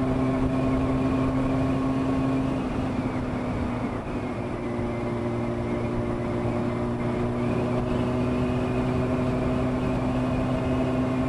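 Honda CBR600 F2's inline-four engine running at steady riding revs. The engine note dips slightly about three to four seconds in, then holds steady again.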